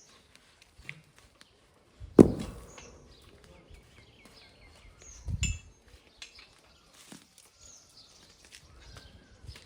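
Small birds chirping repeatedly, with a sharp, loud knock about two seconds in and a duller thud a few seconds later.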